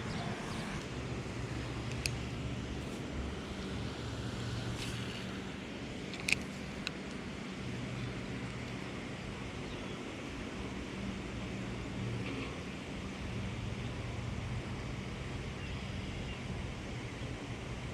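A steady low engine hum, like distant road traffic or a motor, that fades in and out over outdoor background noise, with a few faint sharp clicks.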